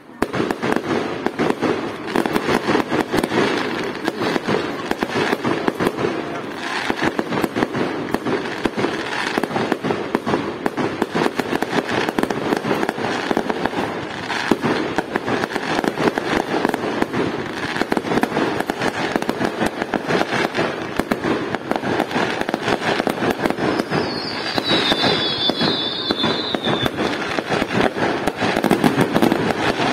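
Fireworks display: a dense, unbroken barrage of rapid bangs and crackles. About three-quarters of the way through, a high warbling whistle rises above it for a few seconds.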